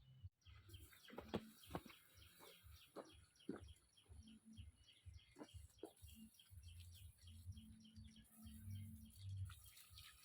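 Faint bird chirping, a rapid run of short repeated chirps, broken by a few sharp knocks about a second and two seconds in.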